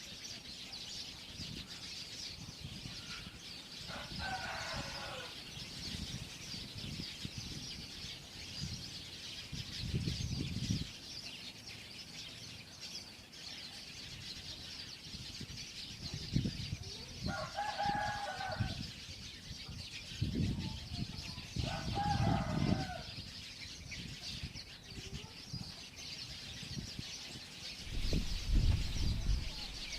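A flock of small birds chirping and twittering without pause in a dense, high chatter. Three louder, lower calls of a second or two each cut in: about four seconds in, around seventeen seconds and around twenty-two seconds. Low rumbles come and go underneath.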